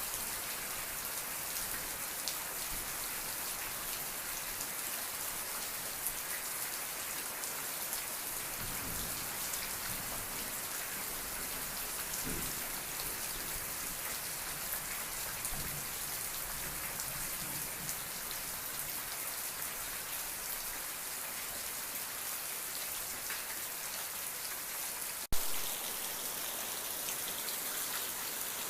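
Steady rain falling, an even hiss with the patter of individual drops. Near the end a single sharp click stands out above the rain.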